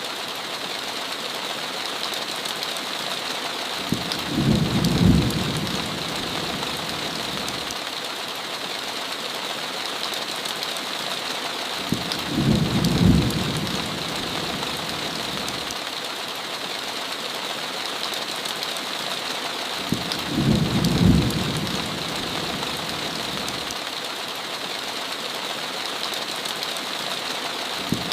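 Steady heavy rain beating on a window, with a low roll of thunder about every eight seconds, three times.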